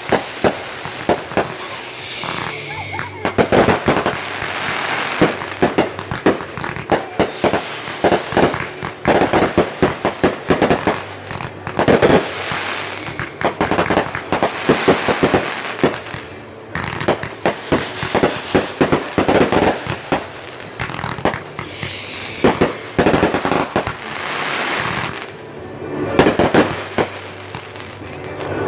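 Aerial fireworks bursting in quick succession: dense loud bangs and crackling, with a short falling whistle about 2, 12 and 22 seconds in.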